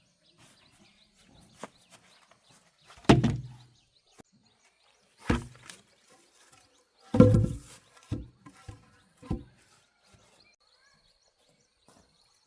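Pieces of wood thudding and knocking as they are thrown onto a truck: about seven irregular heavy knocks, the loudest about three and seven seconds in, then quiet for the last few seconds.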